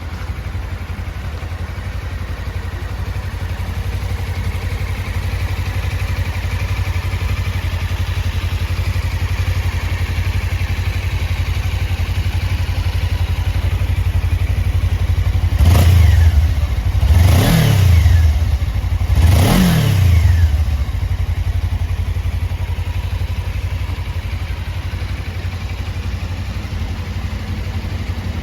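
Suzuki V-Strom 250's parallel-twin engine idling, then revved three times in quick succession about halfway through, each rev rising and falling back, before settling to idle again.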